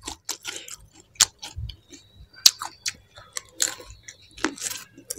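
Close-miked chewing of pani puri: irregular crisp crunches and wet mouth clicks.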